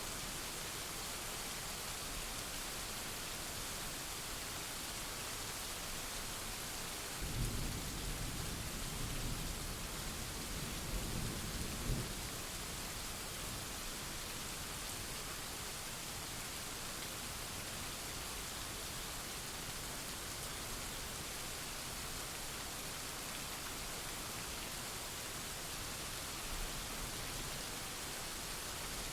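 Steady rain falling, with a rumble of thunder rolling in about seven seconds in and lasting about five seconds, ending in a sharper crack; a faint low rumble follows near the end.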